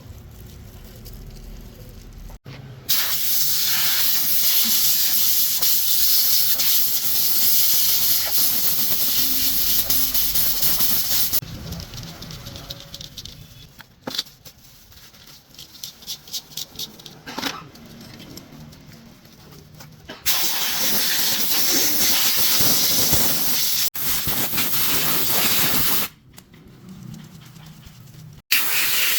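Loud, high-pitched hissing spray in three long stretches that start and stop abruptly, with quieter stretches of scattered clicks and knocks between them.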